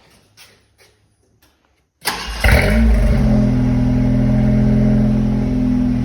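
1989 Ford Ranger engine started on the key about two seconds in: a brief crank, then it catches with a quick flare of revs and settles into a steady idle, its first run after fresh oil.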